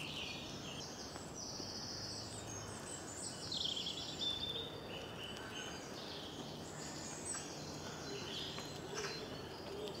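A chorus of woodland birds singing, several songs overlapping at once, with a faint steady low hum underneath.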